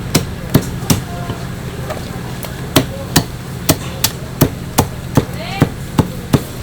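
Cleaver chopping chicken on a cutting board: a run of sharp chops, about two or three a second, with a pause of nearly two seconds after the first three. A steady low hum runs underneath.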